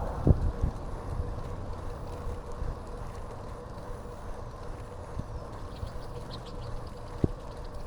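Bicycle ride: a steady low rumble of wind and rolling, with a sharp thump just after the start and another near the end, and faint quick ticking about six seconds in.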